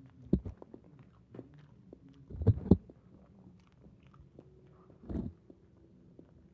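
Close-up eating sounds of roast chicken being bitten and chewed: soft wet clicks throughout, with louder bites just after the start, a quick pair about two and a half seconds in, and another just after five seconds.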